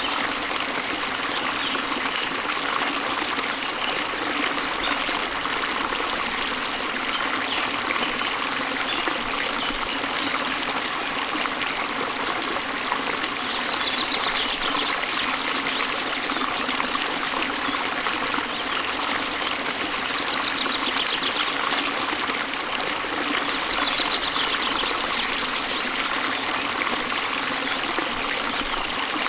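Waterfall water rushing steadily, with faint high bird trills coming through a few times.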